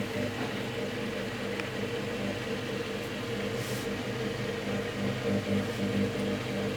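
Candy CSTGC 48TE/1-84 top-loading washing machine running with a steady low motor hum that starts to pulse unevenly near the end. The machine is stuck in a loop with error E09.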